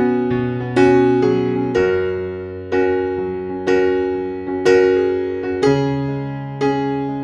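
Background music: a piano or electric piano playing slow chords, one struck about every second and ringing out until the next.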